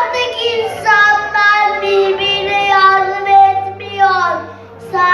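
A child's singing voice holding long notes, several phrases starting with an upward slide, over quiet backing music.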